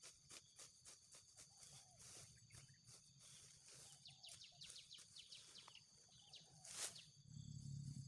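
Old hand sickle slicing through grass stalks in quick repeated strokes, faint sharp snicks about three a second. A few short falling chirps come in midway, and a louder rustling swish comes near the end.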